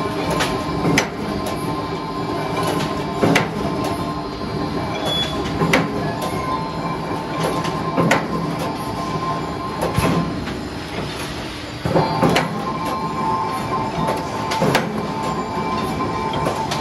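Automatic round steel bar shearing machine running steadily with a humming drive, its blade clanking sharply through the bar about every two and a half seconds.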